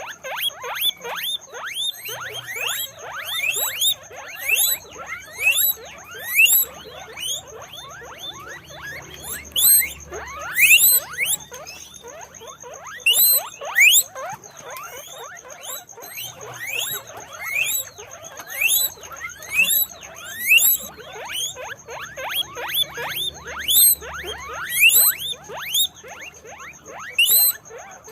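Guinea pigs wheeking: many short, rising squeaks overlapping several times a second.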